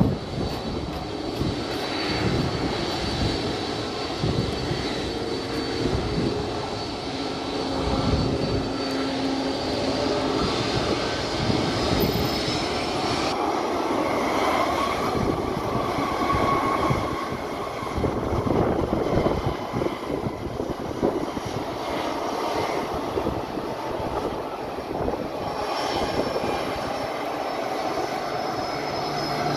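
Boeing 767-300F freighter's twin jet engines running, a steady jet noise with a high fan whine that rises slightly in pitch over the first dozen seconds.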